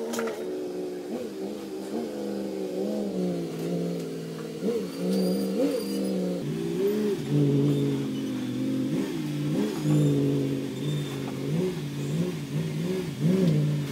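Car engine running under load as it backs a boat trailer, with short throttle blips about every second; the engine note steps down about halfway through.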